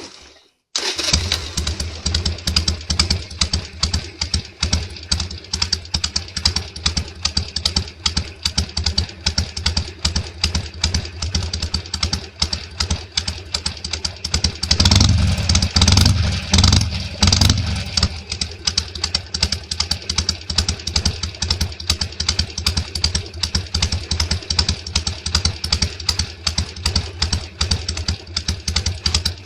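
Harley-Davidson Sportster's air-cooled V-twin engine starting about a second in and settling into a steady, pulsing idle, revved up briefly a couple of times about halfway through. It is run right after an oil change to get the fresh oil circulating.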